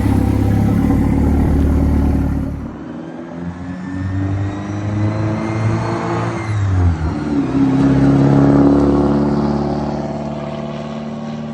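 1987 Porsche 944 Turbo's turbocharged 2.5-litre four-cylinder engine as the car drives by. A loud low engine note for the first couple of seconds, then the pitch climbs under acceleration, drops sharply about seven seconds in, and the sound swells and then fades away.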